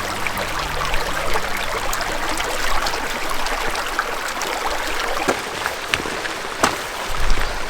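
Water running in a stream, a steady rushing with scattered sharp clicks. The tail of background music ends about a second and a half in.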